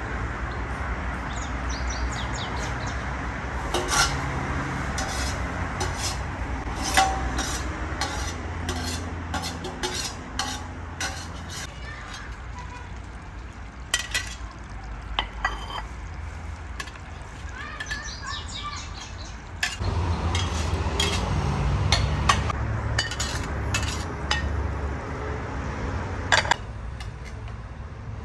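Metal utensils and dishes clinking in irregular sharp strikes, over a steady low rumble.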